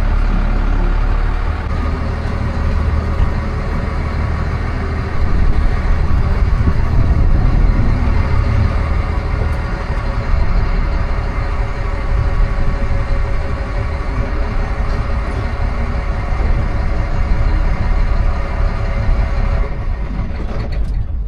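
Motor vehicle engine running steadily with a deep rumble, getting louder about five seconds in.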